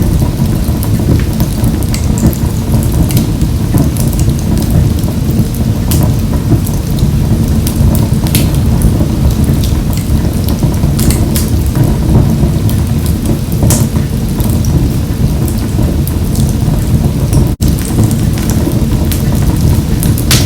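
Wood fire burning in a wood-burning stove: a steady low rumble of flames with frequent sharp crackles and pops from the burning logs. Near the end the sound drops out for a split second.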